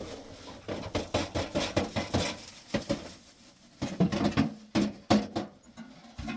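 Irregular clattering knocks and clicks, thickest about two-thirds of the way through.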